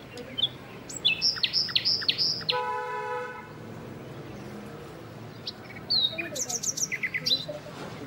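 Birds chirping in two bursts of quick, high repeated notes, about a second in and again from about five and a half seconds, with a short steady horn-like tone lasting about a second between them.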